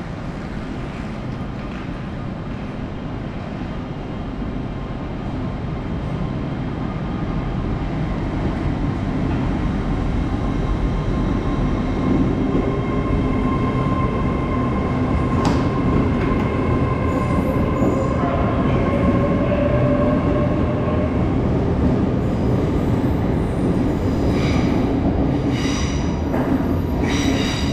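Great Western Railway Hitachi Intercity Express Train moving along the platform, its low rumble growing louder as it comes closer. A whine rises in pitch through the middle, and high wheel squeals come in near the end.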